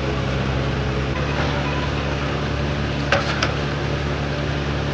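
Truck engine running steadily: a low, even hum that shifts slightly in pitch about a second in, with a few short clicks about three seconds in.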